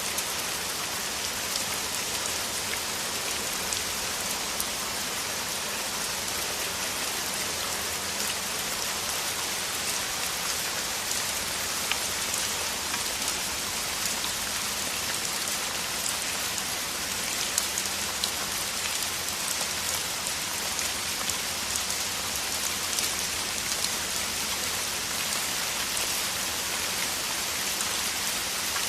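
Heavy rain falling steadily, an even hiss with many small sharp drop impacts.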